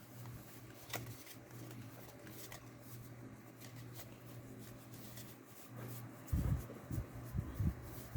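Soft rustling and faint clicks of trading cards and deck packaging being handled, over a low steady hum. A few dull low thumps come about six seconds in, as things are set down or knocked on the table.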